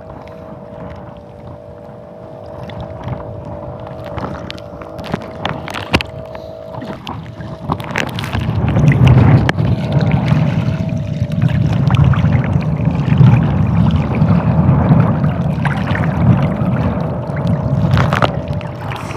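Strong wind rumbling loudly on the microphone from about eight seconds in, over sharp knocks on a small fishing boat. A faint steady hum runs underneath.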